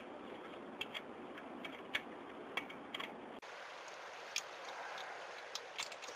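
A 10 mm wrench loosening the carburetor mounting bolts: scattered sharp metal clicks and taps at irregular intervals.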